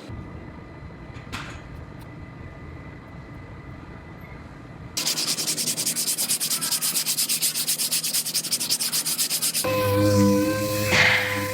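Sanding on the car's bodywork: after a few quiet seconds a loud, fast, evenly pulsing rasp starts suddenly, about eight pulses a second. Near the end it gives way to the steady whine of a power tool running.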